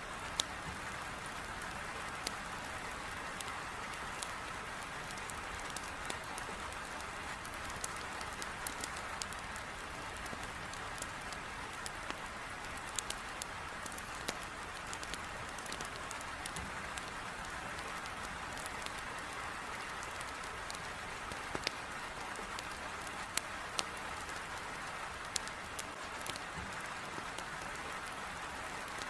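Heavy rain pattering steadily against a window, with a wood fire crackling in a fireplace: scattered sharp pops at irregular intervals over the even hiss of the rain.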